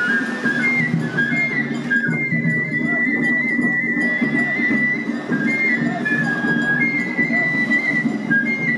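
Japanese festival hayashi music: a bamboo flute (fue) plays a stepping high melody, holding one long note for about two seconds starting a couple of seconds in, over a busy lower-pitched accompaniment.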